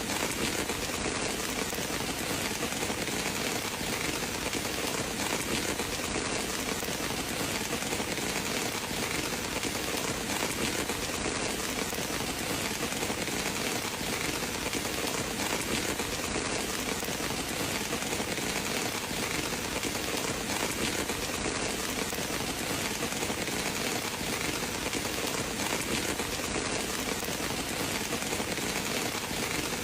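Steady rain falling, an even hiss with no break or thunder.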